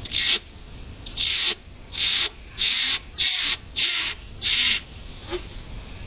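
Coucal giving seven short, harsh hisses: one, then after a second's pause six more, each about a third of a second long and about two-thirds of a second apart.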